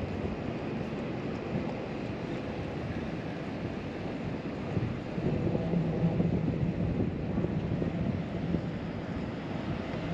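Wind buffeting the microphone over water, a steady rushing noise, with a faint low steady hum rising out of it from about five to eight seconds in.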